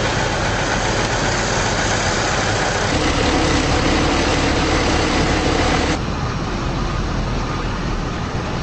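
Fire engine idling steadily, with a humming tone added from about three seconds in; the sound shifts abruptly twice, as at cuts between shots.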